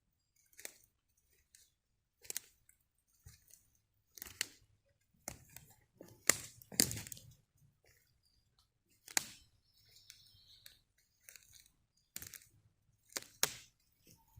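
Footsteps on the wet forest floor: scattered sharp cracks and crunches of twigs and leaf litter underfoot, about ten in all at uneven spacing, loudest about halfway through.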